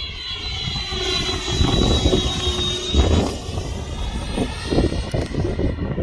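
Freewing Avanti S 80mm electric ducted-fan jet in flight, its high fan whine sweeping in pitch as it passes, then fading about halfway through. Wind buffets the microphone throughout.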